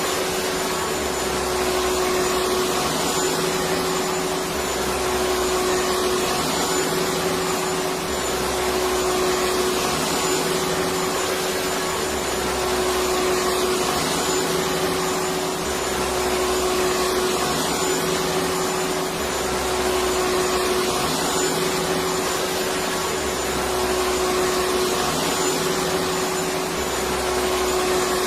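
Electric vacuum cleaner running steadily, a continuous rushing hum with a steady tone, and a low swell that comes and goes about every four seconds.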